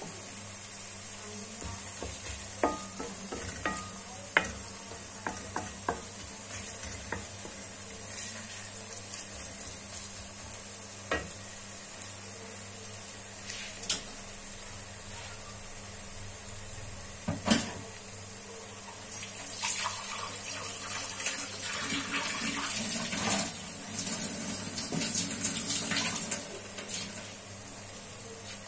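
Onions and ginger-garlic paste frying in oil in a kadai with a steady sizzle. A wooden spoon stirs and scrapes through them and knocks against the pan now and then, with busier stirring in the second half.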